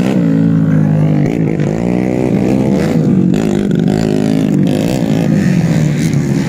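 Dirt bike engine revving hard, its pitch rising and falling again and again.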